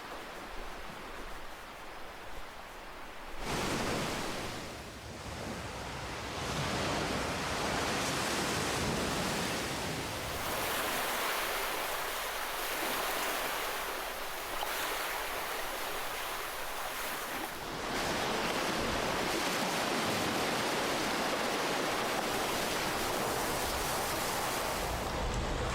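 Ocean waves breaking and washing on a shore: a steady rush of surf, softer for the first few seconds, then swelling in several successive surges as waves come in.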